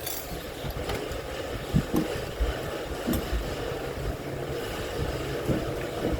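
Steady noise of heavy rain and wind with a low rumble, with a few light clicks about one, two and three seconds in.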